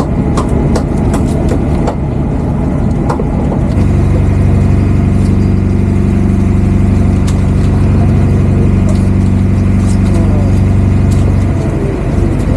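Fishing boat's engine running; it picks up to a louder, steady drone about four seconds in and holds before easing back near the end. A few light knocks sound early on.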